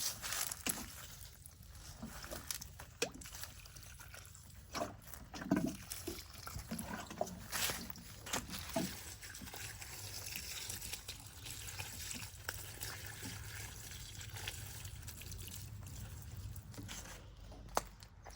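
Water trickling and splashing, broken by scattered light knocks and clicks.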